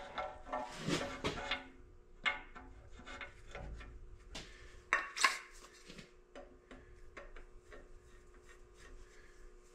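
Metal tools and engine parts being handled: irregular clinks, knocks and scraping, with a few louder knocks about a second in and around five seconds in, then lighter ticking and rubbing.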